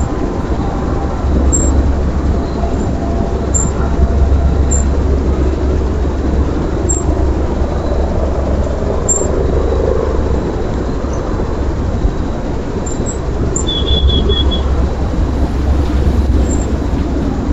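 A steady low rumble of outdoor noise that swells and eases, with a short high bird trill about fourteen seconds in.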